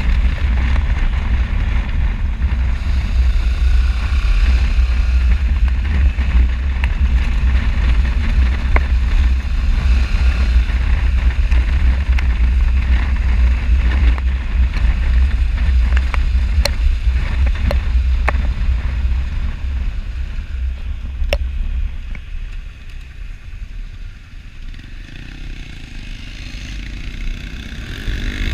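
Motorcycle on the move, its engine running under heavy wind rush on the camera microphone, with a few scattered clicks. The noise eases for a few seconds past the two-thirds mark, then builds again near the end.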